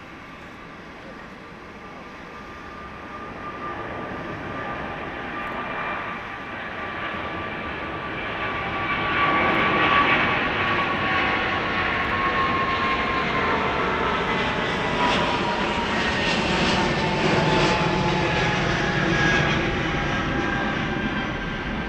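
Airbus A350-900 jet airliner with Rolls-Royce Trent XWB turbofans passing close. The engine roar swells over about the first ten seconds, holds loud, then fades near the end. A high fan whine slowly drops in pitch as the aircraft goes by.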